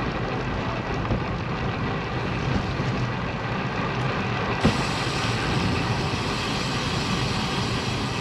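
Steady rush of wind noise on the microphone and tyre noise from a Lynskey Helix road bike rolling along a street, with one short click about four and a half seconds in.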